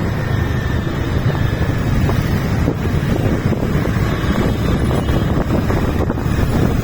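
Steady, heavy wind rumble on the microphone over the noise of road traffic.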